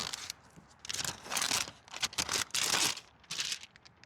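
Thin plastic window tint film crinkling and rustling in a series of irregular bursts as it is handled and pulled away after being creased.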